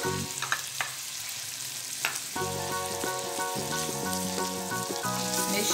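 Chopped tomato, bacon and calabresa sausage sizzling in hot oil in an enamel pot while being stirred with a wooden spoon. The spoon knocks lightly against the pot a few times in the first two seconds.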